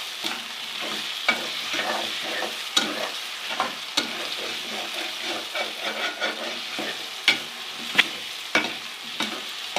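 Diced potatoes, onions and green chillies frying in ghee, sizzling steadily while they are stirred in the pan. A utensil knocks and scrapes against the pan several times, as sharp clicks.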